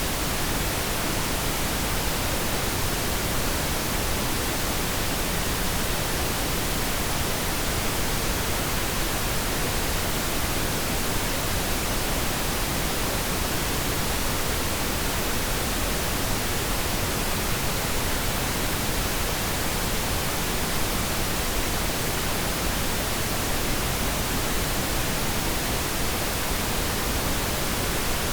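Steady pink noise: an even, constant hiss across all pitches, unchanging throughout.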